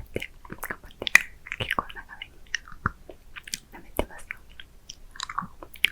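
Close-miked mouth sounds of licking and sucking a hard candy: quick wet clicks and smacks in an irregular patter, mixed with soft inaudible whispering.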